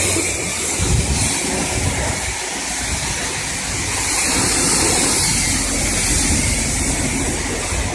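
Car wash water jets spraying against the car: a loud, steady rushing hiss.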